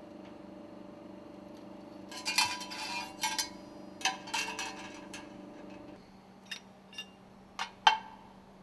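Metal ring segments of a piston-rod stuffing box clinking against each other as they are dismantled and stacked, in two clattering clusters and then a few single sharp clicks, over a faint steady hum that stops about six seconds in.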